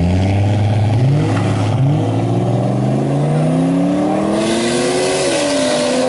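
Race cars accelerating hard in a street drag race, the engines revving up through the gears. The pitch climbs steadily and drops back at gear changes about a second in and again near the end.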